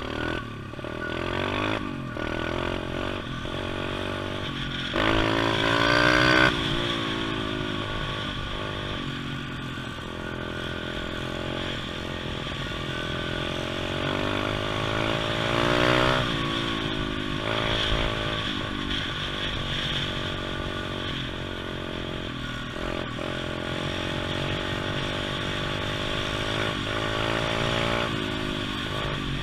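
Pit bike engine revving up and down as it is ridden, its pitch climbing sharply about five seconds in and again around sixteen seconds.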